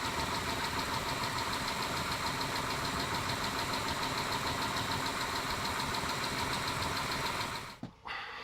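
Mitsubishi 6G72 V6 engine idling with a fast, even ticking, the lifter tapping that the owner blames on the hydraulic lifters while doubting whether it is the lifters at all or a worn engine. The engine sound cuts off near the end.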